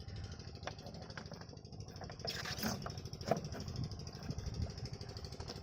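Small 5 HP diesel water pump engine running with a fast, even chugging. A short burst of clatter and a few knocks come about halfway through.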